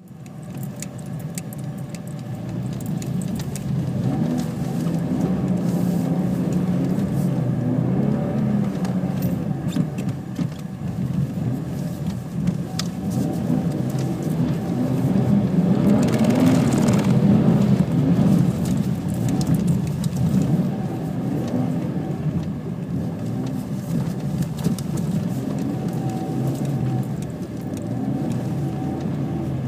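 BMW E46 328i's straight-six engine heard from inside the cabin, its pitch rising and falling as the car is driven on snow. It gets louder and hissier for a couple of seconds around sixteen seconds in.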